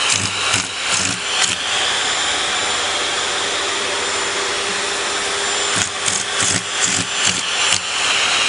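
Vacuum cleaner running. For a few seconds in the middle the suction is a steady rush, and at the start and again near the end it is broken up by irregular pulses.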